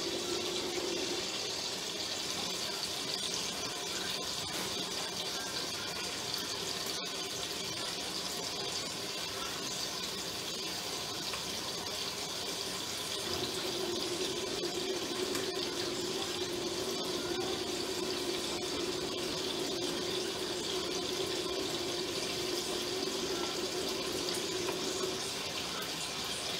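Pieces of pork rind sizzling as they brown in a pot, a steady hiss.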